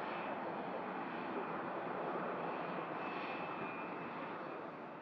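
Airliner engines running, a steady rush with a faint high whine held on top; it fades near the end.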